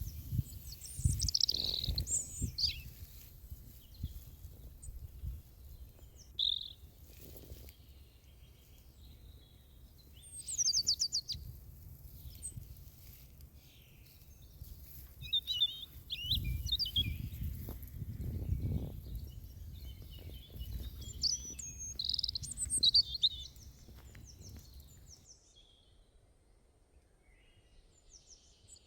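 Small birds chirping and singing in short bursts of high trills, scattered throughout, over a low, uneven rumble that fades out near the end.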